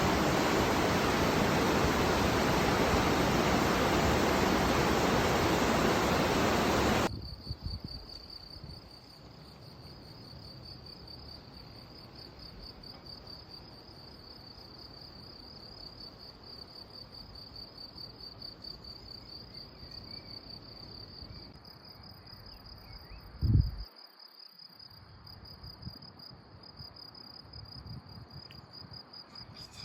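Rushing river water as a loud, even roar, cutting off suddenly after about seven seconds. Then crickets chirping in a steady, fast-pulsing high trill, with one short thump about 23 seconds in.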